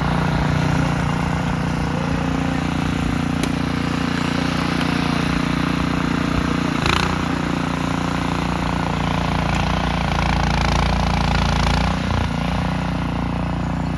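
Snowblower's small engine running steadily, with a brief burst of noise about halfway through.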